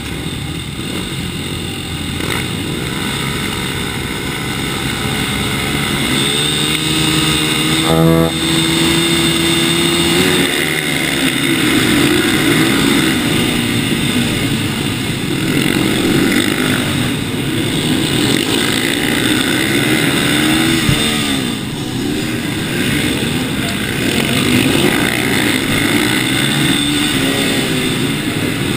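Supermoto motorcycle engines, the rider's own TM and the pack around it, running and revving as the bikes ride off together; the pitch rises and falls with the throttle, with a rev climbing and held high around eight seconds in.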